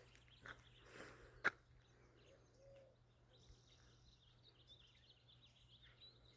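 Quiet outdoor ambience with small birds chirping faintly in quick, high notes in the background. A single sharp click comes about a second and a half in.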